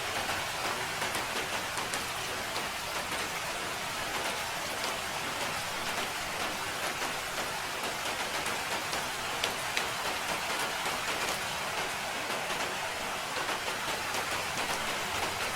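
Steady rain falling, a dense even hiss with many separate drop ticks scattered through it.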